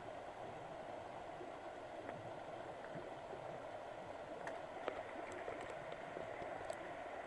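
Mountain stream running with a steady rush of water, and a few faint sharp clicks in the second half.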